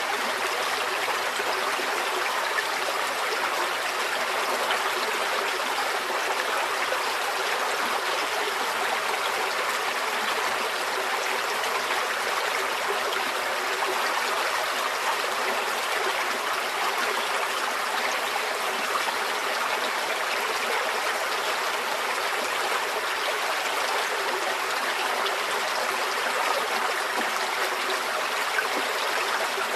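Forest stream flowing steadily over stones, an even, continuous babble and trickle of water without deep rumble.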